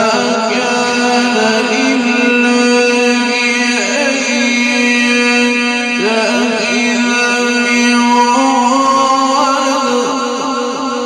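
A male reciter's voice chanting Quran recitation in the ornamented mujawwad style, holding one long melismatic note with wavering ornaments. The note steps up in pitch about eight seconds in.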